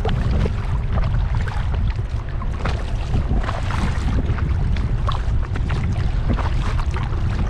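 Water splashing and lapping around a kayak, in many small irregular splashes, over a steady low rumble of wind on the microphone.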